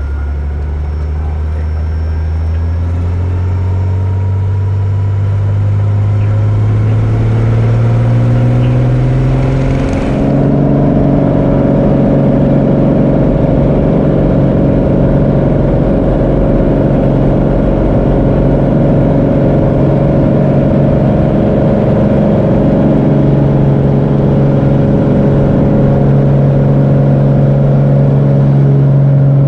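Cessna 210K's six-cylinder piston engine and propeller rising in pitch and loudness over about ten seconds as power comes up for takeoff, then holding a steady high drone.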